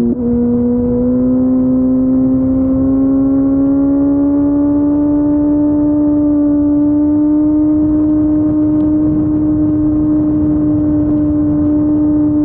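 Kawasaki ZX14R's four-cylinder engine through an Akrapovic Racing Line exhaust, running on the move with a steady drone. It breaks briefly and drops in pitch right at the start, then the note rises slowly over about six seconds and holds, with wind rush underneath.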